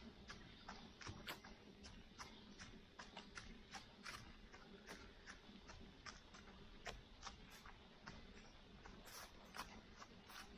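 Faint, irregular ticking of light rain drops, a few sharp little taps a second over a quiet background hiss.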